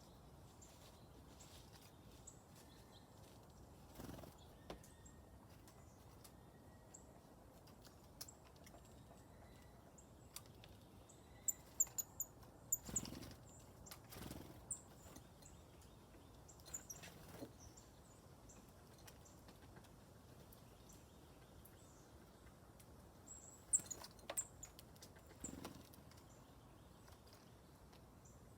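Faint, scattered short high-pitched chirps from small birds, a cluster about twelve seconds in and another near the end. A few soft thumps in between.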